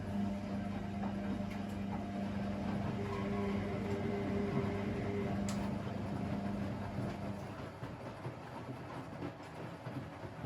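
Domestic washing machines running, with a steady motor hum that stops about three-quarters of the way through. A higher whine sounds over it for a couple of seconds in the middle.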